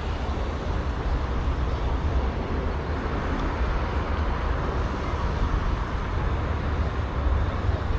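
Steady outdoor background noise: a deep rumble with hiss above it and no distinct events.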